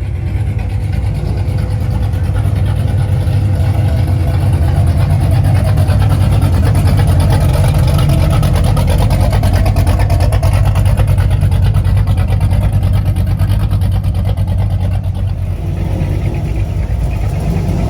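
A car engine running loudly and steadily, a deep low rumble that comes up suddenly at the outset and eases a little near the end.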